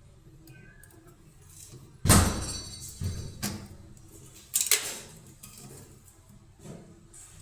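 A sudden loud knock about two seconds in, followed by a few smaller knocks and another clatter, like metal parts or a panel being handled.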